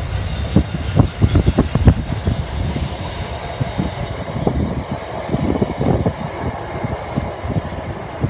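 Freight train wagons rolling past, wheels knocking and clanking irregularly over the rails, with some wheel squeal.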